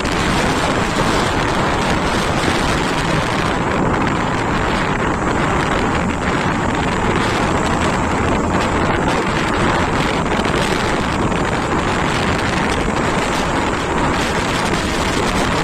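Steady wind rush buffeting the microphone of a moving motorcycle, with the bike's running noise underneath.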